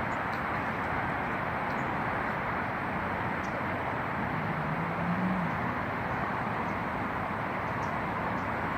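Steady rush of road traffic, with a faint low engine-like drone about four to five seconds in.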